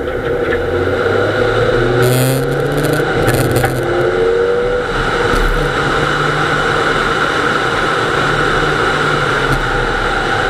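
Nissan Almera GTi's 2.0-litre four-cylinder engine pulling hard on a rally stage, heard from inside the car. The engine note rises in the first couple of seconds, then holds at high revs over a steady rush of tyre and wind noise.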